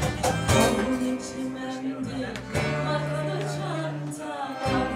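Live folk-style music: a woman's singing voice with plucked string accompaniment and long held notes.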